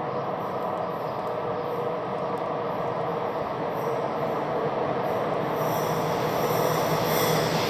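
An approaching train, an MLW diesel locomotive heading a freight, echoing in a railway tunnel: a steady engine drone that grows louder, with a high wheel squeal coming in at about five and a half seconds.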